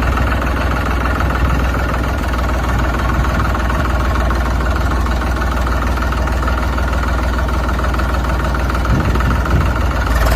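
Diesel tractor engine running steadily at idle with a deep, even rumble.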